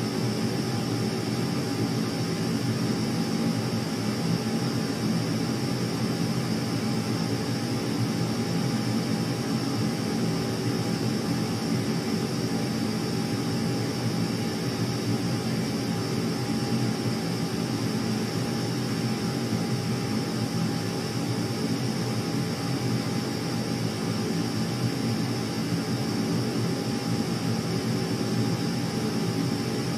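Steady aircraft engine drone, a low hum with a constant higher whine, unchanging throughout.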